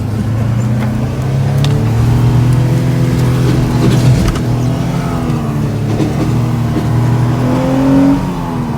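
Pickup truck engine revving hard under load, its pitch rising and falling, climbing near the end and then dropping off; the truck is stuck in wet snow with its four-wheel drive failing.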